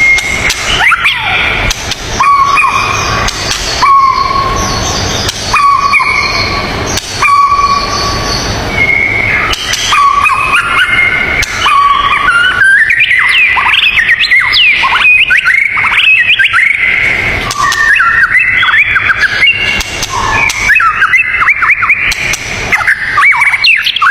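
Birds singing: clear whistled notes and quick sliding calls throughout, with a lower whistle repeated about once a second in the first several seconds, over a steady rushing background.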